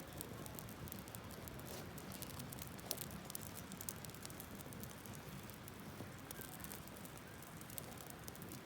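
Wood campfire crackling, with frequent irregular sharp pops and snaps over a steady hiss.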